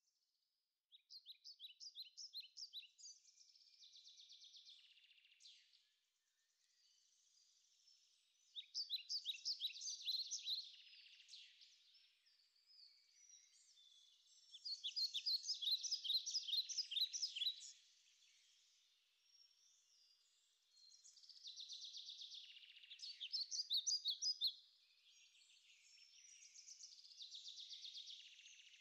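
Bird chirping: bouts of rapid, high-pitched repeated notes, each a few seconds long, with short pauses between.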